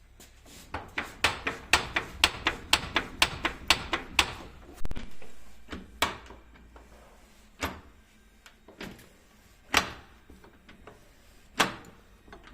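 Sharp clicks and knocks from a FOX 3.0 shock absorber and its setup on the bench. There is a quick run of about two clicks a second for a few seconds, then single clicks every couple of seconds.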